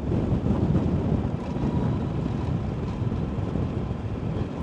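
Wind buffeting the microphone and tyres rumbling on a gravel road while riding an electric motorcycle, a steady low rush with no engine note.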